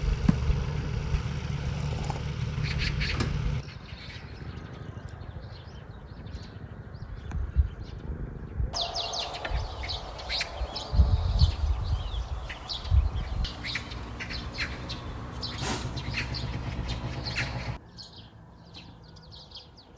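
Small birds chirping over a steady low hum, the background changing abruptly about three and a half seconds in, near nine seconds, and near eighteen seconds, with a few dull low thumps in the middle.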